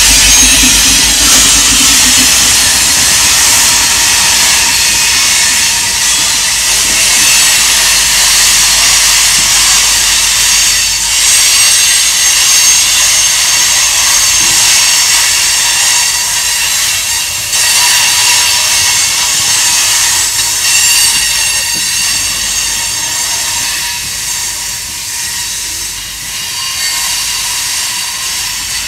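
Freight cars (covered hoppers, then tank cars) rolling past on curved track: a loud, steady rush of steel wheels on rail with high-pitched flange squeal from the wheels rounding the curve. It eases slightly near the end.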